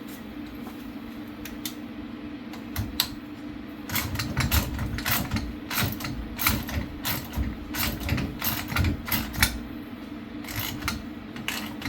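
Ratchet wrench clicking in quick, irregular runs, with metal knocks, while the four nuts holding a Dana 44 rear axle shaft's retainer plate are run down; a steady low hum sits underneath.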